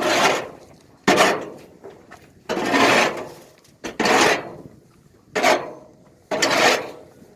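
Sweet corn silage being scooped and tossed, with a scraping rush about every second and a quarter, six times over. Each one starts suddenly and trails off.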